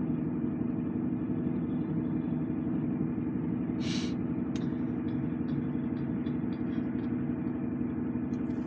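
Lorry's diesel engine idling, a steady low hum heard from inside the cab, with a short hiss about four seconds in.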